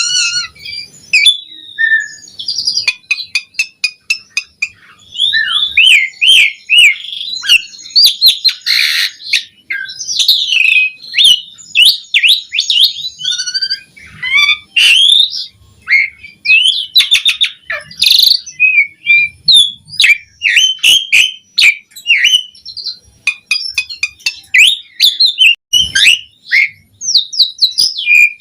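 Asian pied starling (jalak suren) singing continuously: a rapid, varied stream of whistles, chatters and sharp clicking notes with short pauses.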